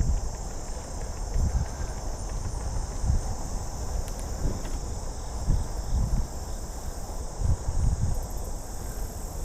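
Wind buffeting the microphone of a moving bicycle as uneven low rumbling gusts, over a steady high-pitched chorus of insects.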